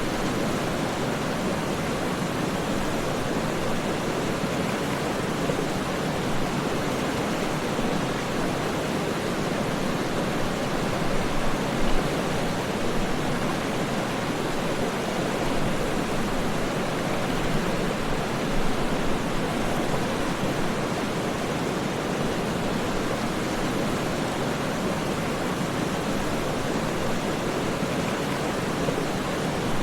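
Waterfall: falling water rushing steadily, an even, unbroken wash of sound with a slight flicker of splashes.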